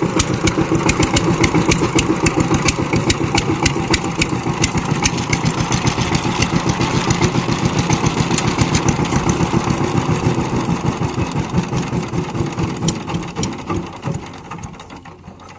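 Power tiller engine running with a rapid, even beat, dying away over the last few seconds.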